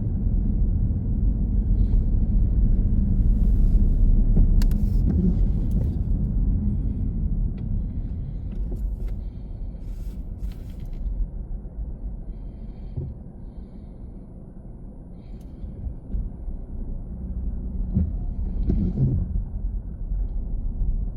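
Car driving in traffic: a steady low rumble of road and engine noise, which eases off about two-thirds of the way through and then builds again, with a few scattered light clicks.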